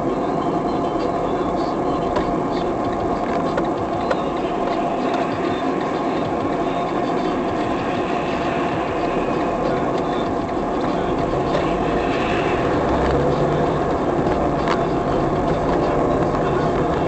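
Steady running noise of a moving vehicle, growing a little louder about ten seconds in.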